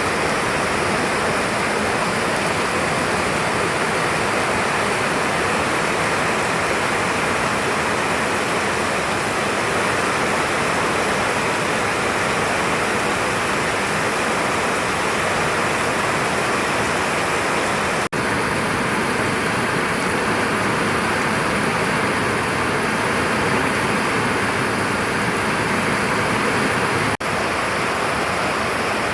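Heavy rain falling in a steady, dense hiss. It cuts out for an instant twice, past the middle and again near the end.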